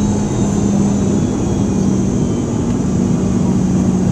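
Cabin noise inside a Boeing 717 from a rear seat: the steady rush and drone of its tail-mounted Rolls-Royce BR715 jet engines, with a strong low hum that dips slightly in pitch about halfway through.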